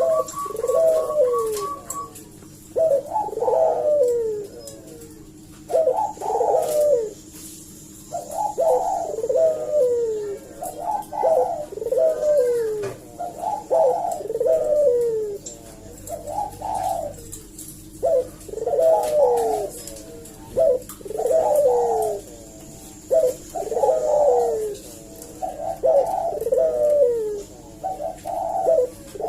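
A puter dove (ringneck dove) cooing without pause, one phrase of falling coos about every two seconds, over a steady low hum.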